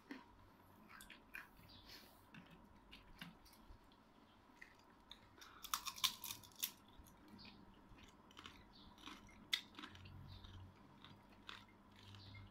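A person chewing food, with soft crunches and small clicks throughout and a short run of louder crunches about six seconds in.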